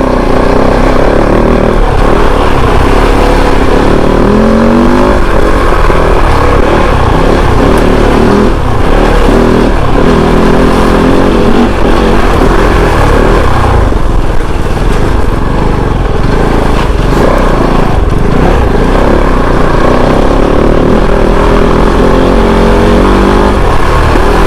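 Kove 450 Rally's single-cylinder engine running under way, its pitch rising and falling several times as the rider revs through the throttle, over a steady loud rumble.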